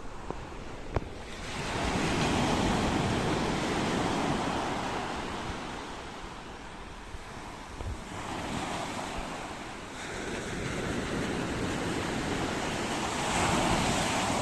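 Ocean waves breaking and washing onto a shore, in slow swells of surf: one builds about two seconds in and fades, another rises about eight seconds in, and a third peaks near the end.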